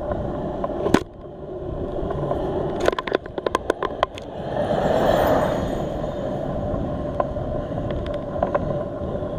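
Wind and road noise from a bicycle-mounted camera on a climb, with a car passing on the wet road in a rush that swells about five seconds in. A run of sharp clicks comes just before it.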